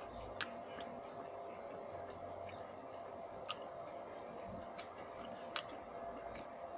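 A man chewing a fried onion fritter (piyaji), with a few sharp, irregularly spaced mouth clicks over a faint steady hum.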